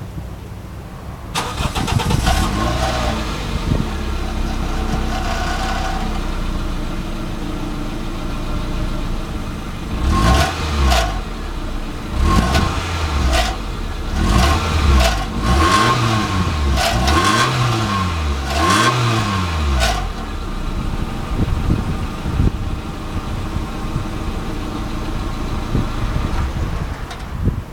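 Stock Toyota Starlet engine starting about a second in and settling to a steady idle, then free-revved in a series of about seven quick blips, each rising and falling in pitch, before dropping back to idle.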